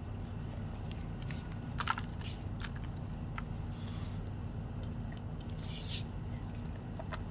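White gym chalk crunching and crumbling: scattered sharp cracks, the sharpest about two seconds in, and a short gritty crumble near the six-second mark, over a steady low hum.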